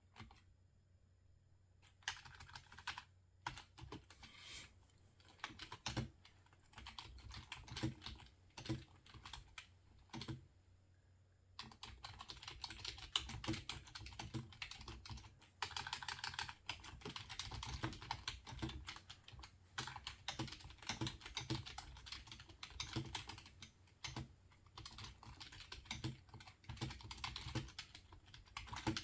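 Typing on a computer keyboard: a pause, then scattered single keystrokes, turning about a third of the way in into quick, continuous typing.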